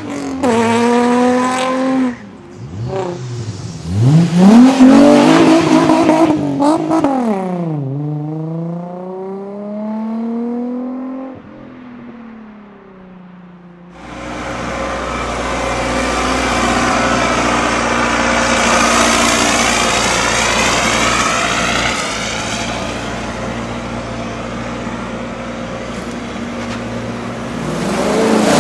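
Nissan 350Z's V6 accelerating hard away with wheelspin: the engine revs climb, drop at each gear change, climb again, and then fade into the distance. Later a steady, unbroken car engine and road noise runs on, swelling near the end.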